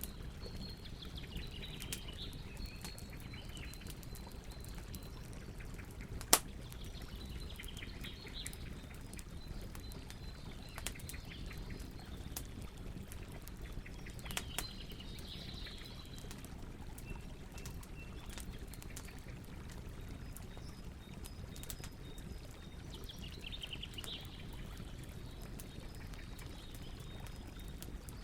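Campfire burning: wood crackling with scattered sharp pops over a steady low rumble of the flames, one much louder pop about six seconds in. Faint high chirps come and go in the background.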